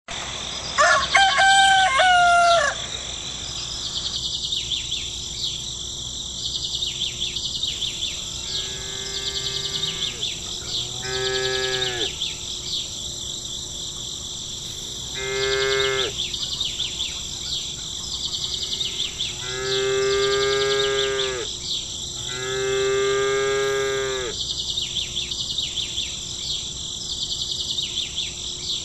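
Farm ambience: cattle mooing five times, each moo a second or two long, over a steady high chirping of insects. A rooster crows loudly near the start.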